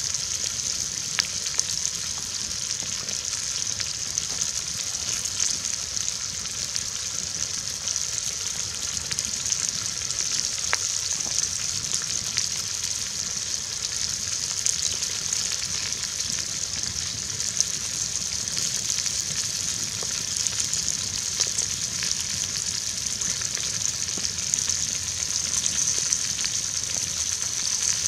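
Potatoes and onions sizzling steadily in a cast-iron Dutch oven hung over a campfire, a high, even hiss with a few sharp pops scattered through it.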